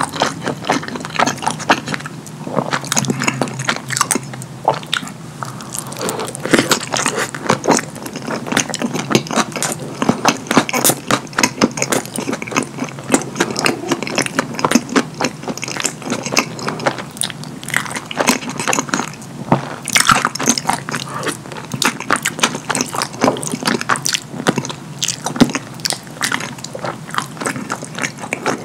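Close-miked wet eating sounds: chewing and lip smacking on a cheese-sauce-covered chili cheese dog, a dense, irregular run of sticky clicks.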